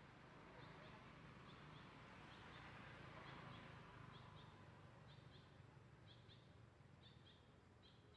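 Faint outdoor ambience: a bird repeating a short, high double chirp about once a second over a low, steady background hiss.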